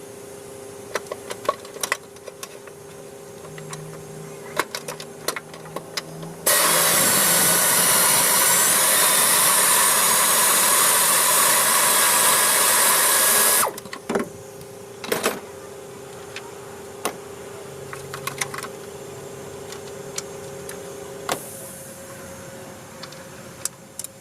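A power tool runs steadily for about seven seconds from around six seconds in, amid scattered clicks and knocks of metal tools being handled.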